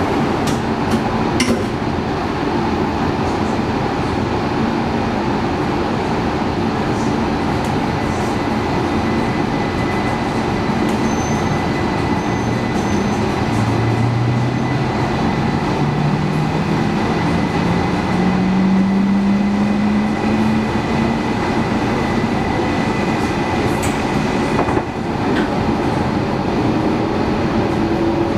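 E2 series Shinkansen train pulling away: a steady rumble with a motor whine that rises in pitch from about halfway through as it picks up speed, and another rising whine near the end.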